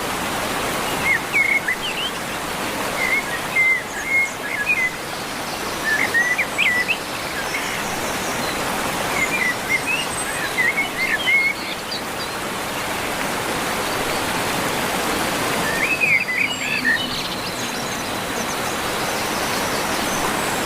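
Songbirds chirping in short bursts of quick notes every few seconds, over a steady rushing background noise.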